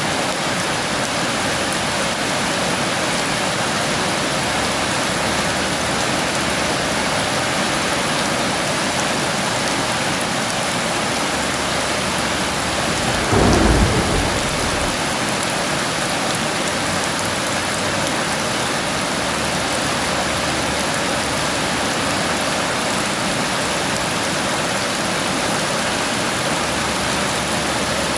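Heavy rain falling steadily, with one thunderclap about halfway through that rumbles for a second or two.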